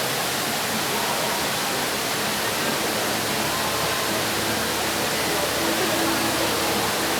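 Steady rush of the Rain Vortex, Jewel Changi Airport's indoor waterfall, pouring into its pool, with faint crowd voices underneath.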